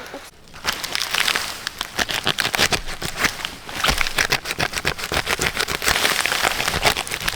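Dense rustling and crackling made of many quick clicks and snaps, starting about half a second in and going on steadily.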